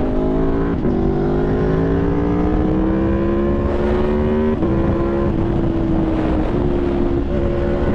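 Aprilia Tuono V4's V4 engine pulling under acceleration on the road, its pitch climbing steadily and then stepping down about halfway through as it changes gear, with a few more shifts near the end. A steady wind rush runs underneath.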